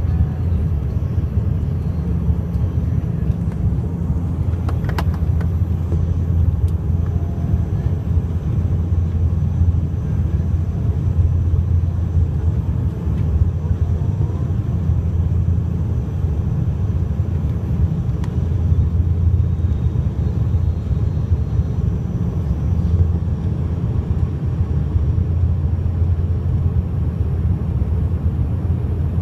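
Steady low drone of a regional airliner's engines and propellers or fans, heard from inside the passenger cabin during the landing. There is a brief click about five seconds in.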